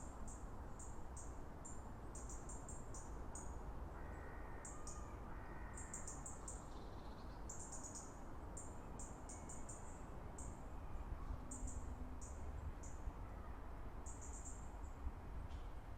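Common crossbills calling: short, high, down-slurred call notes repeated in quick runs throughout, over a steady low rumble.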